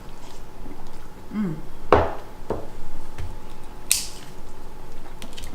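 Eating noises at a seafood boil: a few sharp cracks and clicks, the loudest about two seconds in, and a bright crackle about four seconds in, as crab shells and food are handled.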